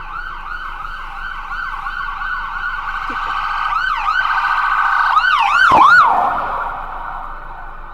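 Electronic emergency-vehicle siren in a yelp, its pitch rising and falling a couple of times a second. It grows louder as the vehicle approaches, peaks about six seconds in, then fades as it passes.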